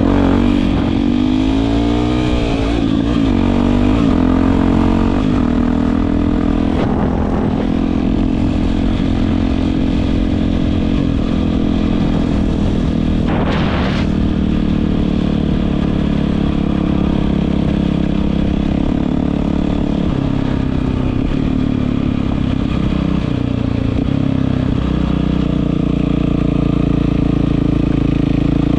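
Yamaha WR450F's single-cylinder four-stroke engine running through an Akrapovič exhaust, its pitch rising and falling in the first few seconds before settling to a steady run. A short hiss comes about halfway through.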